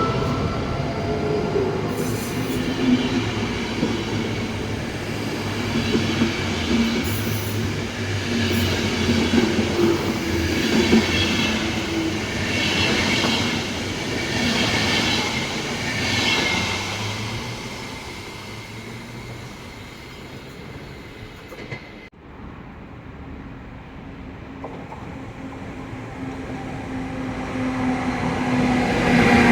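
Train moving through a station: high wheel squeal, then rhythmic clacking of wheels over rail joints about once a second, fading away. After a sudden break about 22 seconds in, another train approaches with a steady low hum, growing louder.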